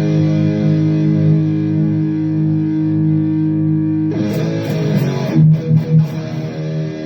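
Electric guitar played through the Donner Arena2000 multi-effects pedal on its Mesa Boogie Rectifier channel 2 amp model, with the intelligent noise gate switched on. A chord rings for about four seconds, then a new chord comes in with a few short, loud muted hits around five to six seconds in, then another held chord.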